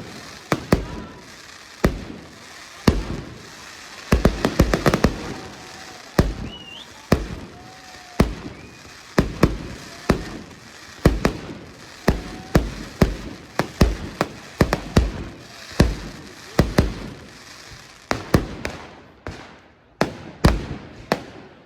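Fireworks display: a steady series of sharp bangs from bursting shells, about one or two a second, with a dense flurry of bangs around five seconds in and crackling between the reports.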